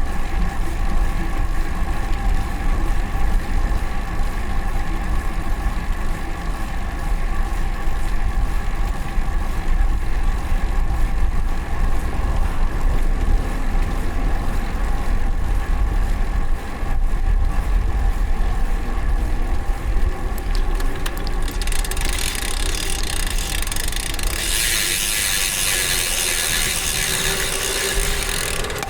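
Road bike's DT Swiss ratchet freewheel hub buzzing steadily while coasting, over low wind and road rumble. A loud hiss builds up in the last several seconds.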